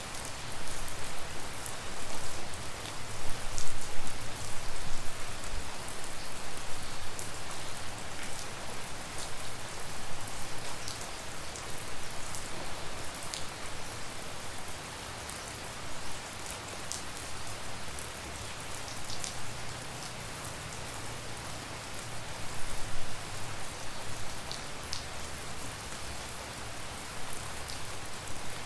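Steady tropical rain falling, a dense even hiss with individual drops ticking sharply on nearby surfaces, heavier in the first few seconds.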